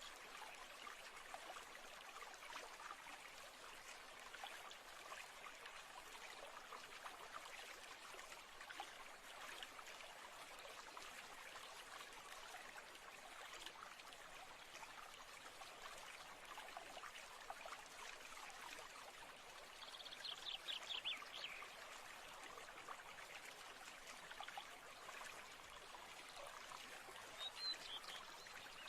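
Faint, steady trickling of a stream, with a bird's quick descending trill about two-thirds of the way through and a brief chirp near the end.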